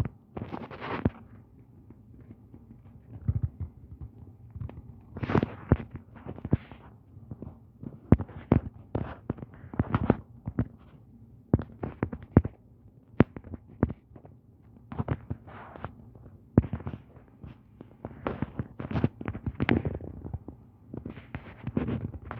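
A series of irregular sharp clicks and knocks, some coming in quick clusters.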